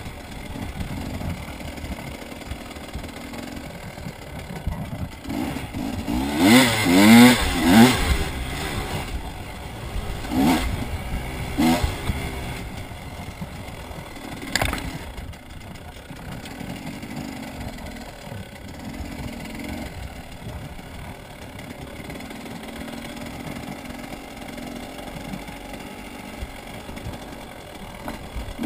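Dirt bike engine running while riding, revving up and down hard about seven seconds in, with shorter throttle blips a few seconds later. There is a single sharp knock about halfway through.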